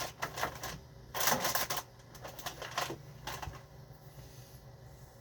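Serving utensils clinking and scraping against dishes in a quick run of clicks, with a louder scrape of about a second starting a second in, then a few more clicks.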